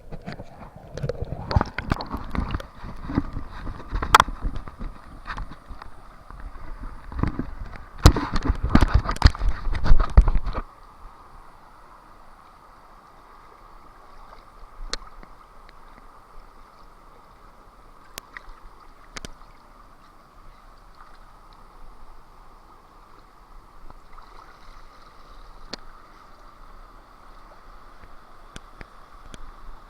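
Water splashing and sloshing close to the microphone, loud and irregular with sharp knocks, for about ten seconds; it cuts off suddenly to a quiet steady hiss with a few faint clicks.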